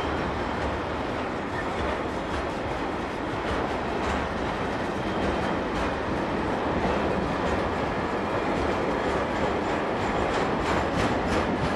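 Car-carrier freight wagons loaded with vans rolling past on the rails: a steady rumble of wheels on track, with sharp wheel clicks that come more often near the end.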